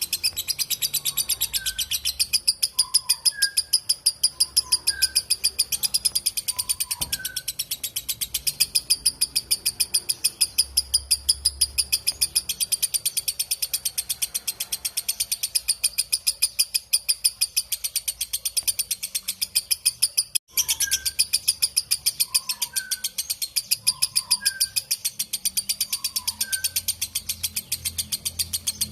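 Lovebird giving its long 'ngekek' chatter: a continuous, high-pitched string of rapid, even strokes that breaks off for an instant about twenty seconds in. Faint, lower single chirps sound in the background every second or so.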